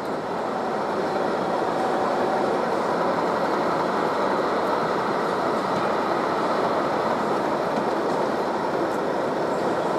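Steady running noise of a train, an even rushing sound without a clear wheel rhythm, growing a little louder about a second in.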